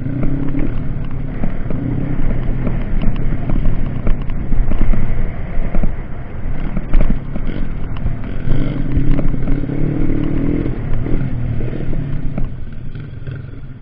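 Off-road dirt bike engines running and revving, the pitch climbing for a couple of seconds about two-thirds of the way through, with scattered clattering knocks.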